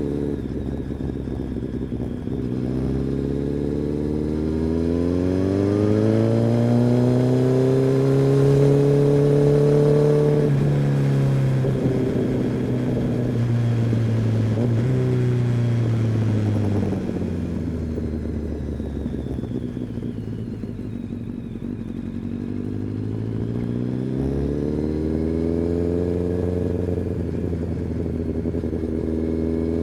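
Kawasaki ZX-10R's inline-four engine and exhaust under way: pitch climbs steadily as the bike accelerates, eases off about ten seconds in, and drops away near the middle. It then stays lower and quieter for several seconds before rising again as the bike pulls away once more.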